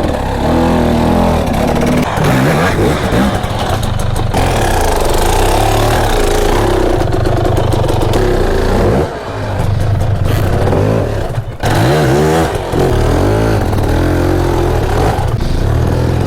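Two-stroke dirt bike engine revving up and down under hard throttle, with a few quick throttle chops past the middle.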